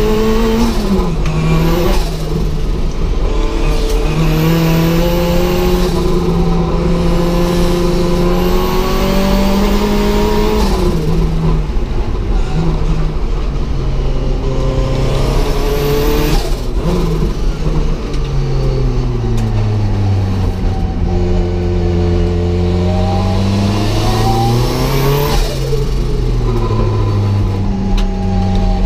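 Turbocharged Ford Zetec four-cylinder engine of a Mk2 Escort hillclimb car heard from inside the cabin, revving hard under full throttle. The pitch climbs through each gear and drops back at the shifts and on braking.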